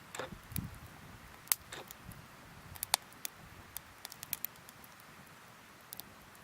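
Wood campfire crackling, with scattered sharp pops over a soft steady hiss and a brief low thud about half a second in.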